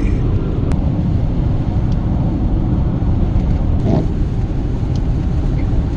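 Camper van driving at highway speed: steady road and engine noise.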